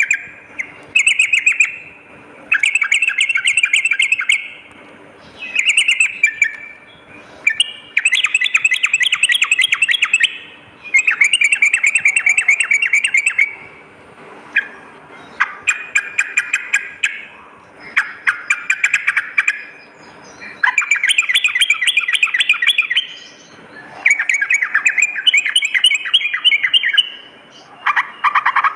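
Yellow-vented bulbul (trucukan) singing: about a dozen loud, rapid chattering phrases, each a second or two long, with short pauses between them.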